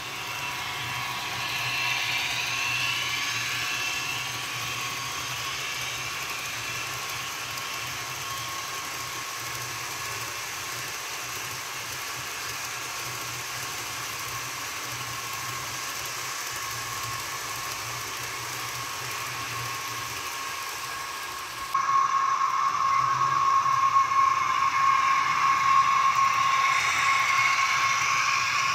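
HO scale model train running on its track, a steady mechanical hum with a thin whine. It gets suddenly louder about three quarters of the way through.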